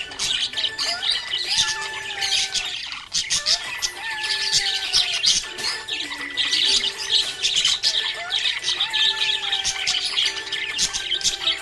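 Budgerigars chirping and chattering rapidly and continuously, with a steady stream of short high chirps, over a song playing in the background.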